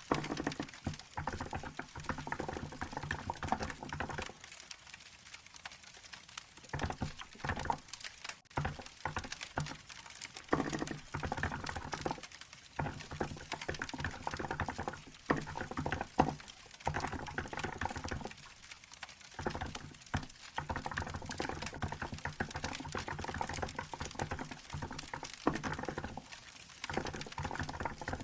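Fast typing on a Hansung GK868B electro-capacitive keyboard with milk-white keycaps: runs of soft keystrokes in bursts, with brief pauses about five seconds in and again near two-thirds of the way through.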